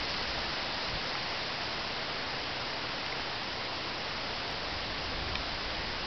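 Steady rushing noise of wind through the trees on the hills, even and unbroken.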